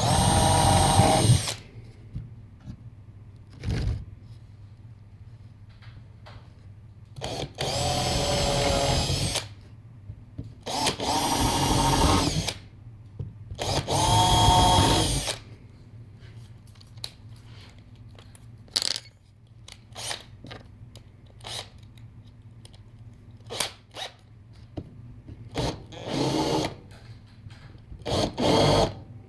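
Electric drill run in short bursts of a second or two, about half a dozen times, with small knocks and clicks in between.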